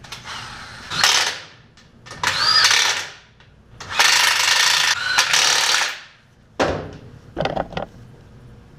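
Compressed-air tool run in three short bursts of a few seconds each, with brief clatters after them.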